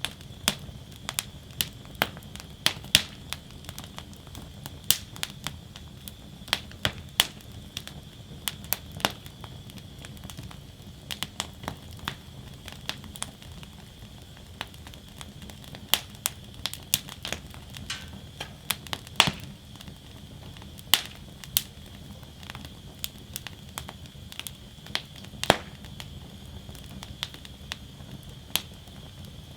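Wood fire burning in a fire basket: irregular sharp crackles and pops, several in quick succession at times, over a steady low rush and faint hiss of the flames.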